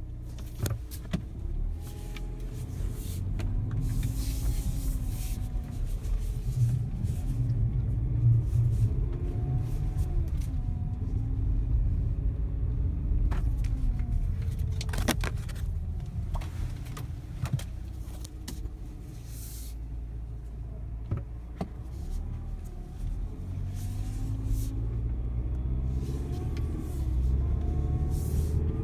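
2017 Mazda CX-5 under way, with steady low road and drivetrain rumble and a thin whine that rises in pitch each time the car accelerates, several times over. The dealership calls the whine normal.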